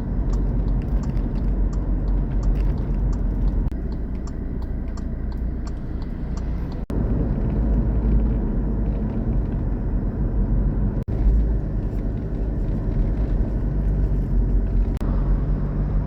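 Motor vehicle running: a steady, loud, low engine and road rumble. Faint regular ticking sounds in the first few seconds, and the sound cuts out abruptly twice.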